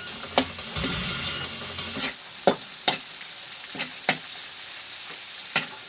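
Potatoes, carrots and green peas sizzling as they fry in a pan, with a utensil knocking against the pan about six times as they are stirred.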